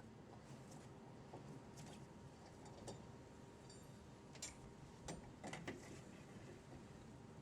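Near silence with a handful of faint, scattered clicks and light taps, the strongest around the middle.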